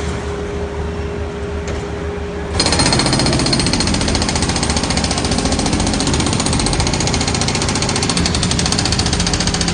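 Construction breaker hammering in rapid, steady strokes over a machine's steady hum. It gets abruptly louder and sharper about two and a half seconds in.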